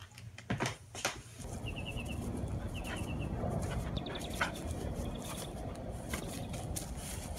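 A few sharp clicks, like a dog's claws on a hardwood floor, then a steady low outdoor noise with a small bird chirping in quick runs of high notes, three times.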